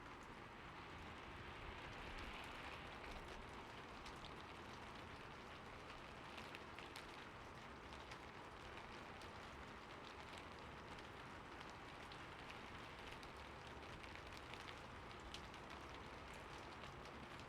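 Steady, soft rain: a continuous hiss of falling rain with many scattered, separate drop ticks.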